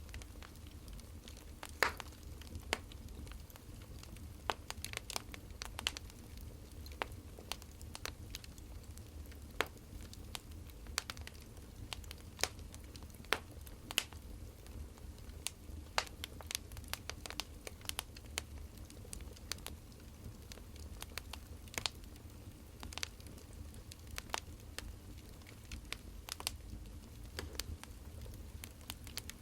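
Wood fire crackling: irregular sharp pops and snaps, a few a second, over a steady low rumble of burning logs.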